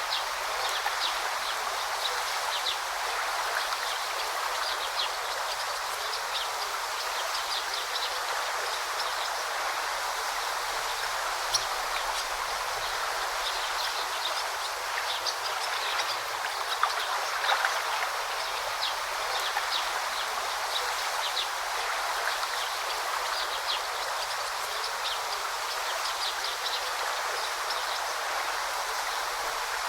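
Forest stream babbling with a steady rush of flowing water. Many short, high chirps from small birds are scattered throughout.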